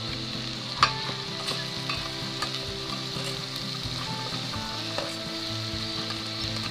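Anchovies, shallots and long beans sizzling in oil in a rice cooker's nonstick inner pot, with a steady hiss. A rice paddle stirs them, scraping and knocking against the pot; the sharpest knock comes about a second in.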